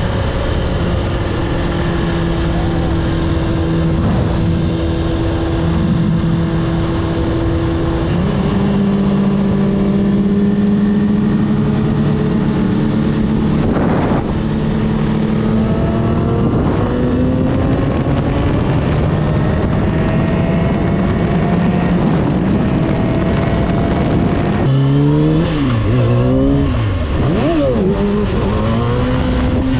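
Motorcycle engine running under way, over a steady rush of wind and road noise. The engine note steps and climbs slowly through the ride, then swings rapidly up and down several times near the end as it is revved.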